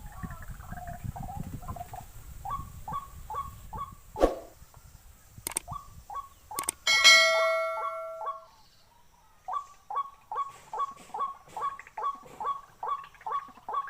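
White-breasted waterhen giving its repeated croaking call, about three short calls a second, which pauses briefly near the middle and then resumes. A few sharp clicks and a bright ringing tone come in partway through.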